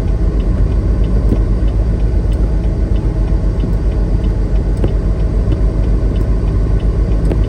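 Steady low rumble of a semi truck's engine and road noise heard inside the cab while driving, with a few faint clicks.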